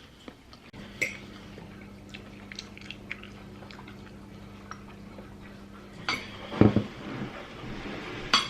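Someone chewing and biting food close to the microphone, with small crunches and clicks, over a low steady hum that starts about a second in and stops around six seconds.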